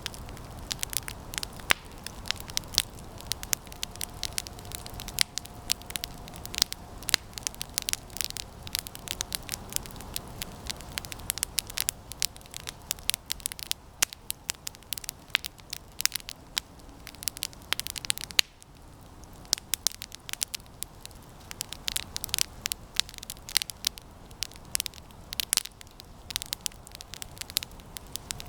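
Campfire of resinous pine branches burning, with dense, irregular crackling and sharp pops.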